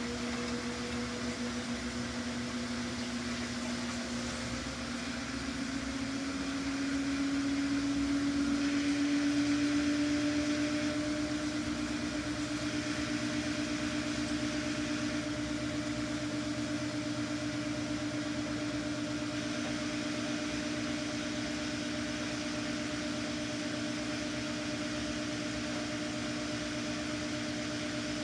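Samsung washing machine drum spinning: a steady motor whine that rises in pitch a few seconds in, briefly getting louder, then holds at one speed. It keeps spinning evenly, without slowing down and speeding up again.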